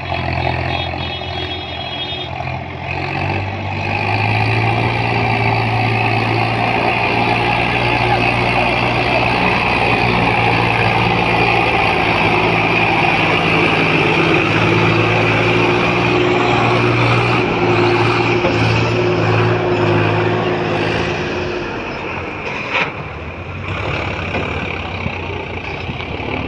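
Swaraj tractor's diesel engine running hard under load as it tries to pull a stuck, soil-laden trolley free. The engine swells about four seconds in, holds strong, then eases off near the end. A single sharp knock comes shortly after.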